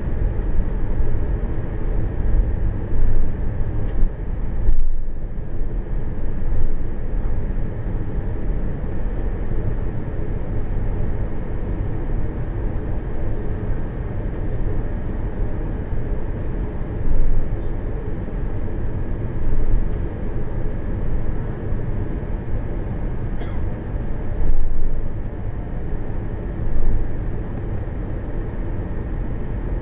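Airbus A340-300 taxiing, heard from inside the cabin: a steady low rumble from its CFM56 engines at low thrust and the rolling airframe, with a few brief swells in loudness.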